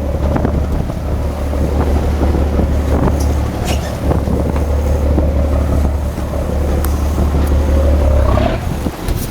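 Sport-fishing boat's engine running steadily with wind on the microphone; about eight seconds in its pitch rises briefly, then the engine drops back.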